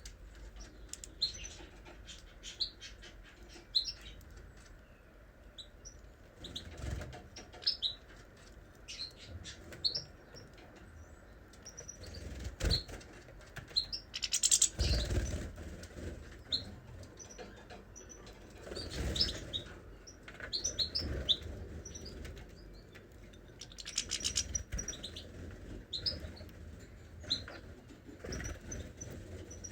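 Small cage birds chirping repeatedly in short high calls, with a few bursts of wings flapping, the loudest about halfway through.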